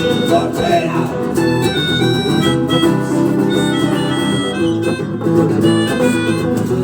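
Rock band playing an instrumental passage between sung verses, with no singing.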